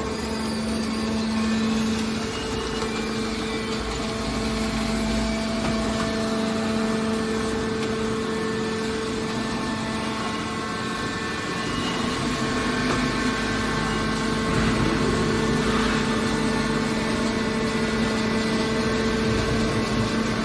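Car scrap baler machine running, a steady mechanical hum with a constant low tone that grows a little louder about twelve seconds in.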